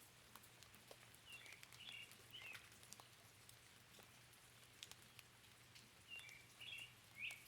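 Faint forest rain: scattered raindrops ticking over a soft hiss, with a songbird chirping in two short runs of calls, one about a second in and one near the end.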